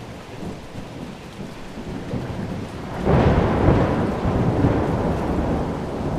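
Thunderstorm with steady rain, and a roll of thunder that breaks suddenly about halfway through, rumbling loudly and slowly easing off.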